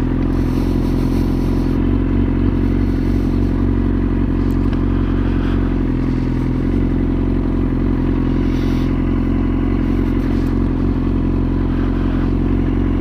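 Motorcycle engine running steadily at low speed, with a constant low rumble and no revving.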